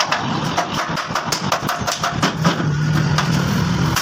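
A small engine running, with a steady low hum and a string of sharp, irregular clicks and knocks over it.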